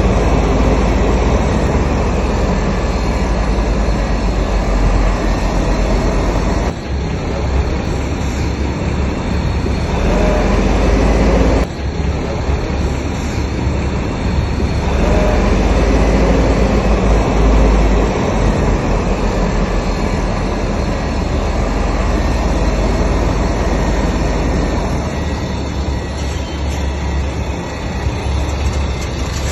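Heavy diesel earthmoving machinery running loudly: a deep, continuous engine rumble with dense noise over it. The sound shifts abruptly about 7 and 12 seconds in.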